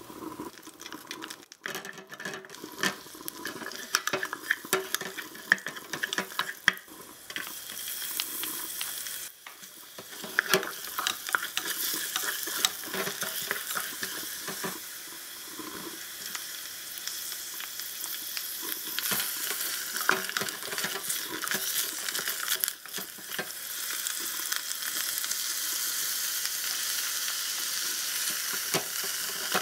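Garlic and then sliced mushrooms frying in a miniature aluminium pot, a steady sizzle that grows louder about a third of the way in and again near the end, with a small wooden spatula scraping and tapping against the pot as it stirs.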